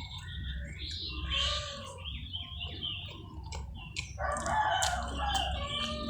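Rooster crowing, one long call about four seconds in, among shorter chicken and small-bird calls.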